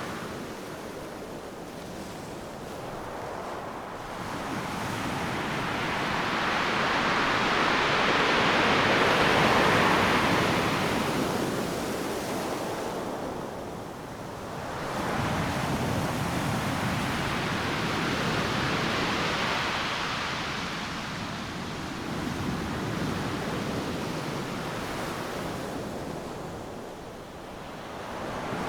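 Ocean surf breaking on a sandy beach: a steady rushing roar that swells as each wave crashes, loudest about a third of the way in, then again in a second long surge, easing off near the end.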